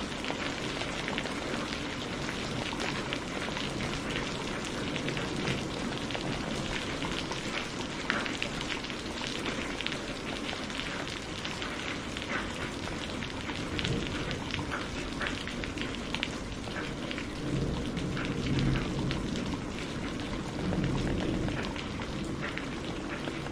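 Steady heavy rain falling on a surface, with many close drop ticks. Low thunder rumbles swell up twice in the second half.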